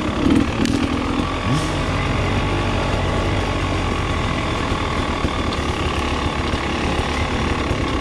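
Off-road motorcycle engine running at low revs while the bike rolls down a dirt trail; the engine note drops away about a second and a half in, then settles into a steady low chug.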